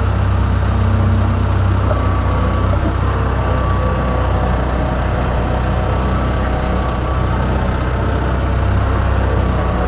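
An engine running steadily at an even speed, with a strong low hum and no change in pace.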